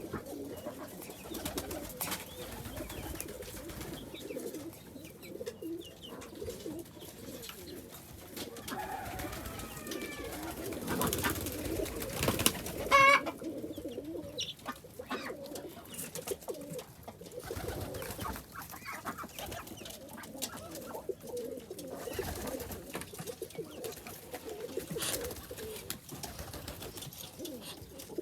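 A loft full of domestic pigeons cooing continuously in a low, overlapping murmur, with scattered clicks and wing or foot noises and a brief louder flurry about halfway through.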